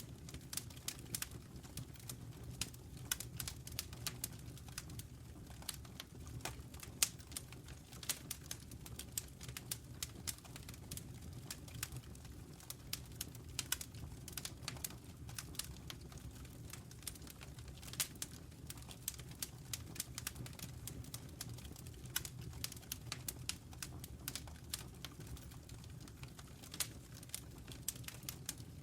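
Wood fire burning in a fireplace: dense, irregular crackles and pops over a steady low rumble of the flames.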